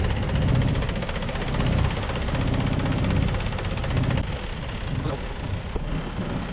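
Longtail boat's engine running steadily with a fast even chugging, its low rumble swelling and easing about once a second.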